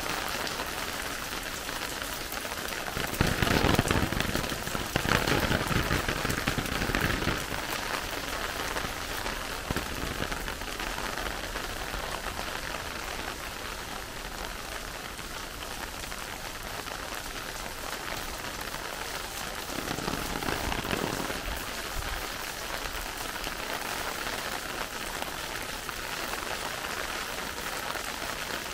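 Steady rain falling and pattering on surfaces, with two louder swells, one about three seconds in lasting a few seconds and a shorter one about twenty seconds in.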